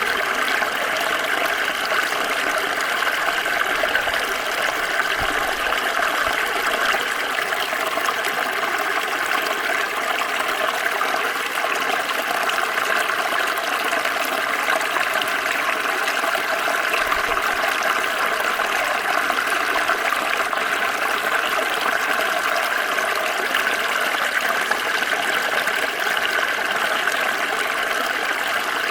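Water of a small stream flowing and splashing steadily, a continuous rushing with no let-up.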